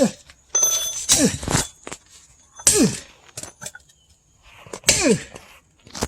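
Sledgehammer striking a steel splitting wedge driven into a log: about four heavy blows, one every second and a half to two seconds, each a sharp metallic crack.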